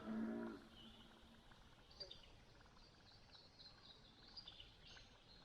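Quiet lakeside ambience with faint, scattered high chirps of small birds. A low, drawn-out animal call fades away in the first half second.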